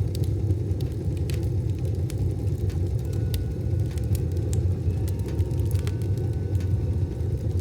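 Wood-stove fire burning: a steady low rumble with a few sharp, scattered crackles and pops. Faint steady ringing tones come in from about three seconds in.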